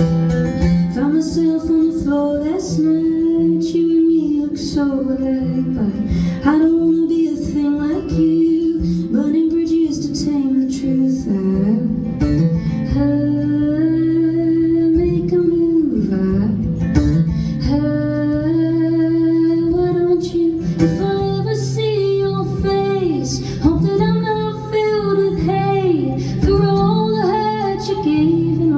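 Live song: a woman singing over acoustic guitar.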